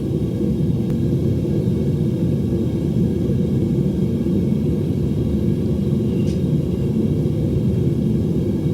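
Home metal-melting furnace burner running with a steady, low rumbling noise.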